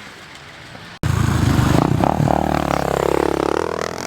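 Dirt bike engine running loud, cutting in abruptly about a second in after a quiet stretch; its pitch drops and then climbs again in the last couple of seconds.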